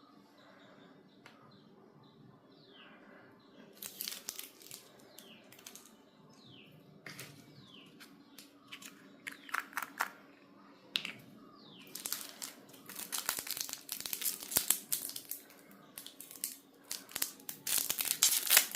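Packaging being handled and torn open: irregular crinkling and tearing in bursts, starting about four seconds in and getting busier in the second half. Short falling bird chirps sound now and then in the background.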